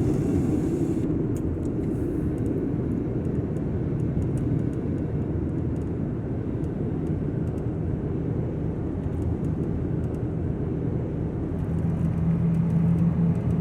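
Ford Transit camper van driving on the road, heard from inside the cabin: a steady low engine and road rumble, with a low engine hum growing stronger near the end.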